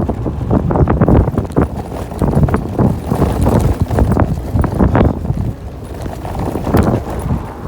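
Chaos GT 1600 W electric scooter ridden fast over rough ground: wind buffeting the microphone, with irregular knocks and rattles several times a second from the bumps.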